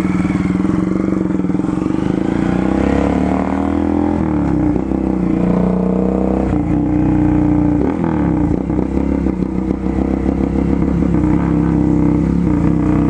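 Straight-piped 2011 Honda CG Fan 150 single-cylinder engine, fitted with only a bare exhaust pipe and no muffler, revved up suddenly and held at high revs with small wavers, very loud.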